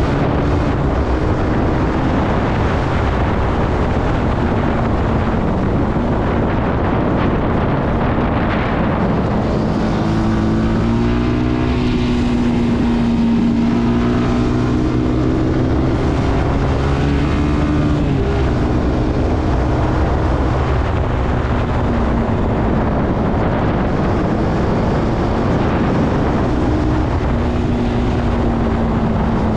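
Zontes C125 motorcycle engine running under way, its pitch rising and falling with the throttle through the bends, over a steady rushing noise.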